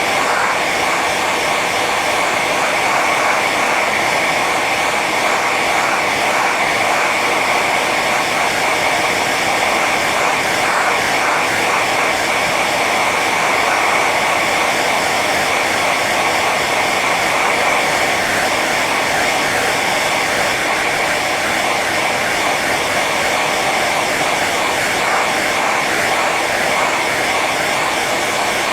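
Hair dryer running steadily on its high setting: an even rush of blown air with a steady whine from the fan motor.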